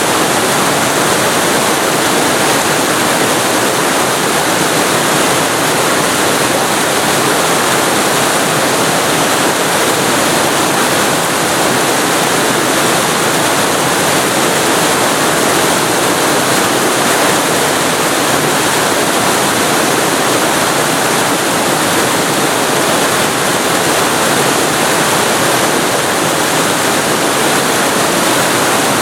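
Waterfall recorded very close to the falling water: a loud, steady rush of water with no change or break.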